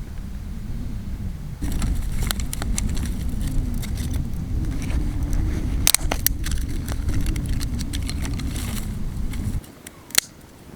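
Vehicle driving, a steady low rumble with loose rattling and clicks over it, cut off abruptly near the end.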